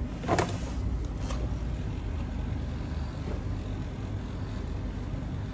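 Electric dog clipper running with a steady low hum, with a short sharp noise about half a second in.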